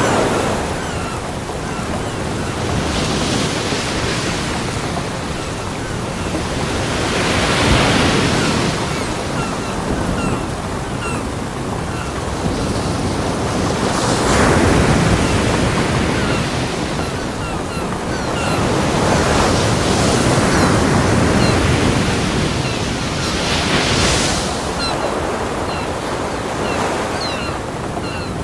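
Ocean surf breaking on a beach, a wave swelling and crashing every few seconds over a steady wash of water.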